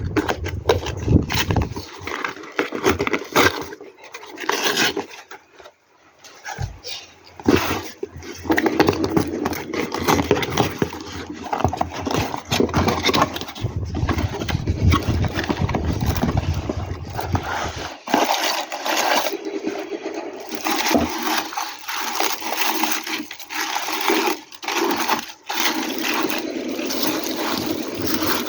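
Packaging being handled and opened: irregular rustling, crinkling and scraping of plastic and cardboard, with a short quieter stretch about six seconds in.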